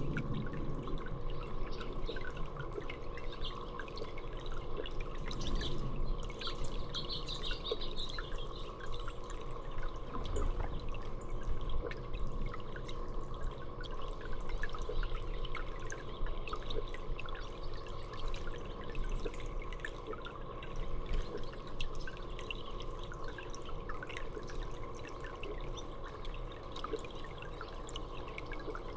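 Water dripping and trickling steadily, many small drops in quick succession.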